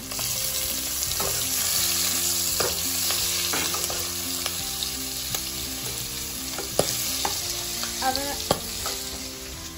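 Sliced onions, green chillies, a dried red chilli and bay leaves frying in hot oil in a kadai. The sizzle jumps up loudly as chillies are added at the start and then runs on steadily, with a few sharp clicks from stirring.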